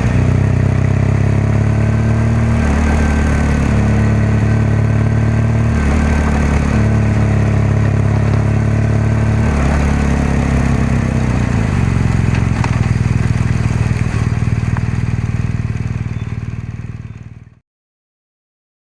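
BMW R1200GS boxer-twin engine and exhaust running under way, the engine note shifting in pitch three times, then fading out near the end.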